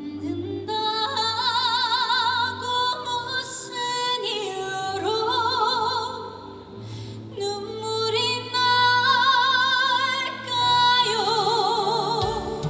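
A woman singing a trot song live over a backing track, holding long notes with wide vibrato in phrases separated by short breaks.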